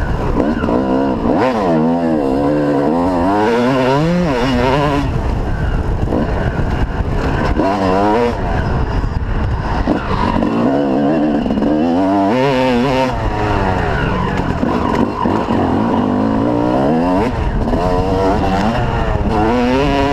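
Motocross dirt-bike engines revving up and easing off over and over, the pitch climbing and dropping every second or so as they are ridden around the track.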